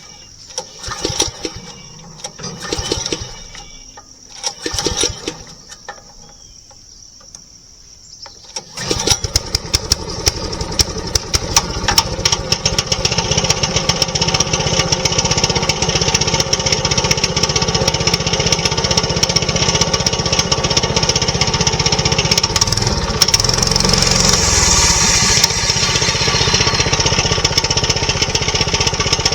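Small gasoline engine on a portable sawmill starting about nine seconds in and then running steadily, now that fuel reaches it after the fuel valve was turned the right way. A few short sounds come before it starts.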